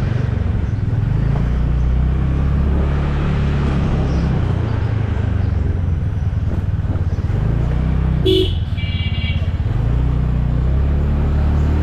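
Motorcycle engine running on the road, its pitch shifting up and down with speed. A vehicle horn honks briefly about eight seconds in.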